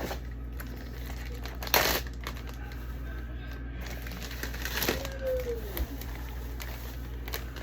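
Plastic bag crinkling and rustling as grapefruit are handled for freezing, with a loud rustle about two seconds in.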